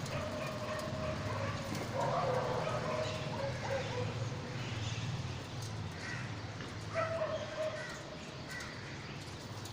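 Parrot chicks giving repeated short, harsh calls, in bursts through the first few seconds and again about seven seconds in, over a steady low hum.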